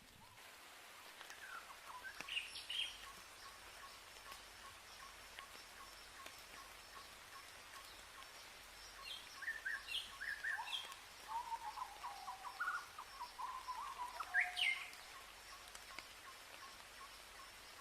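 Forest birds calling: scattered short chirps and whistled notes, in a burst about two seconds in and again from about nine to fifteen seconds. Underneath, a faint steady hiss and a thin, steady insect buzz.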